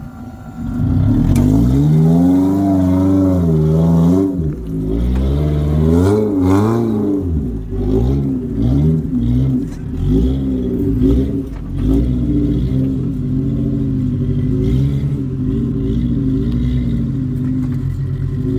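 A four-wheel-drive's engine revving up and down over and over as it is driven along a rough off-road track, then settling to a steadier run about twelve seconds in.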